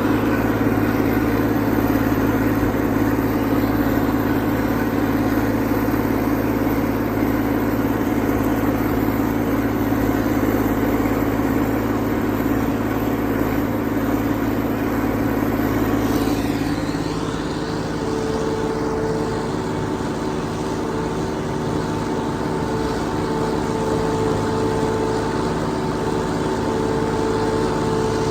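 T-150K tractor's diesel engine running steadily while plowing, with its note changing about two-thirds of the way through.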